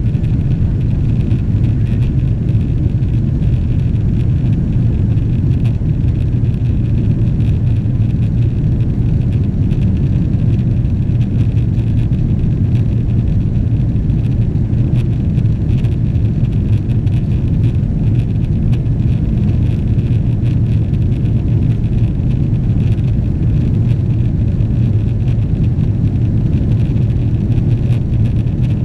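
Steady low rumble inside the cabin of a Boeing 777-300ER from its GE90 engines, even in level with no rise or fall.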